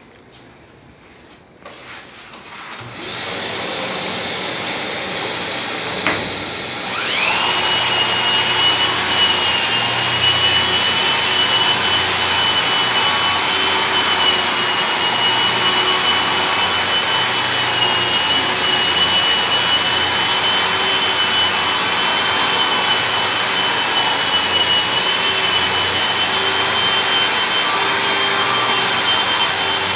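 Dexter long-reach drywall (giraffe) sander with a 180-grit disc and Mirka dust extractor starting up and running together: a motor comes on about three seconds in, and a few seconds later a second motor spins up to a steady high whine, both then running evenly while the ceiling is sanded.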